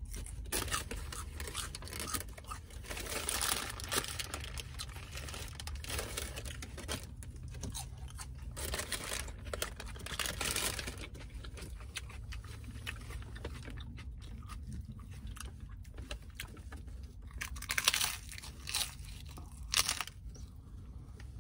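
Close-up crunching and chewing of a crispy fried taco shell, bite after bite, with the loudest crunches near the end.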